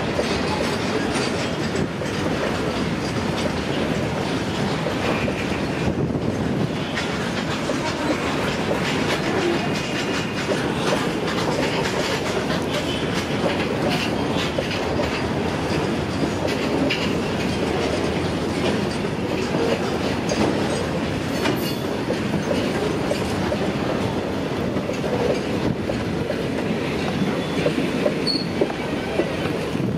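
Freight wagons of a long goods train, open wagons and flat wagons loaded with steel coils, rolling past close by: a steady rumble and clatter of wheels over the rail joints.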